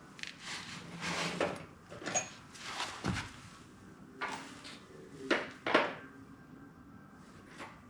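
Steel exhaust-manifold stud, two nuts locked together on it, being threaded by hand into a Kubota V2203 diesel's cylinder head: a series of light metal clicks and scrapes, the last one near the end.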